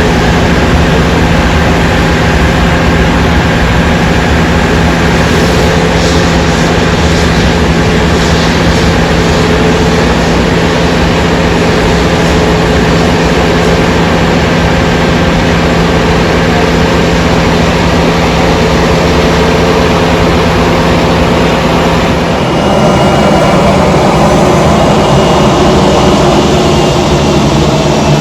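Aircraft engines running loud and steady, a dense roar with a steady hum underneath. About 22 seconds in, the engine note shifts abruptly to a different pitch and grows slightly louder.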